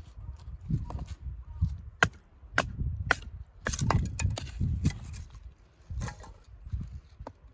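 Firewood being split: a string of sharp cracks and knocks at uneven intervals, with dull thuds between them.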